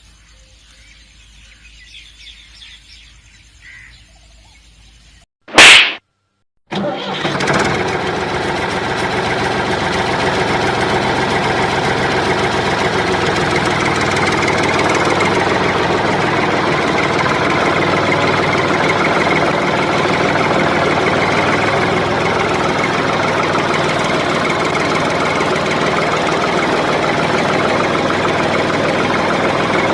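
A short, loud burst, then an engine starts and runs steadily. The engine sound is of the kind dubbed onto toy tractor and JCB videos.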